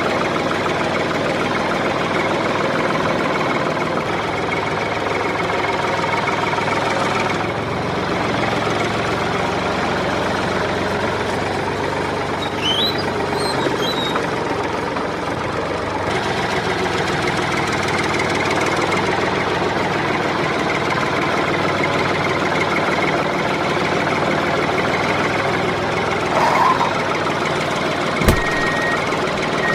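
A small engine running steadily with a knocking chug. Near the end there is a single sharp knock, then short evenly spaced beeps begin.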